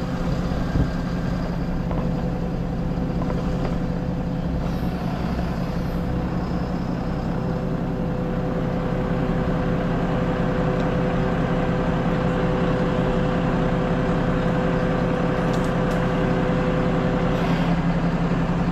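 A truck-mounted crane's engine running steadily under load as the crashed car is lifted, with a steady higher tone over the drone that stops shortly before the end.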